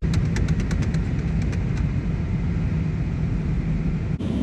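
Car road and engine noise heard from inside the cabin, a steady low rumble. In the first couple of seconds it comes with a quick run of light ticks, about seven a second.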